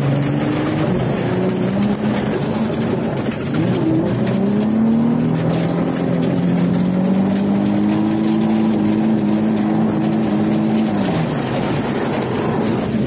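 Car engine held high in the revs during a drift run, its pitch climbing slowly and then falling away about eleven seconds in, over a steady hiss.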